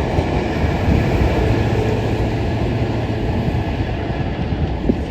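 Train running past with a steady rail rumble and a faint tone in the middle; the spotter takes it for a track inspection unit.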